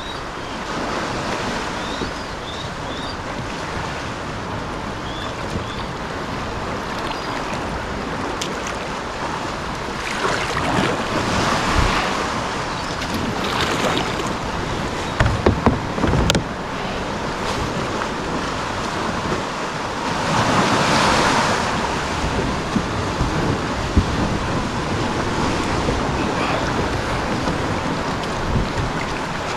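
Sea waves washing and splashing, with wind on the microphone. The wash swells twice and there are a few sharp knocks around the middle.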